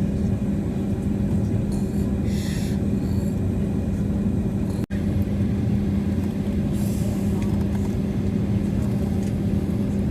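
Airliner cabin noise while the aircraft waits on the ground: a steady low rumble with a constant hum, broken by a brief dropout about halfway through.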